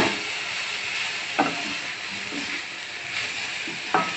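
Mixed vegetables and soya chunks sizzling as they fry in oil in a pan, stirred with a spatula that knocks against the pan three times.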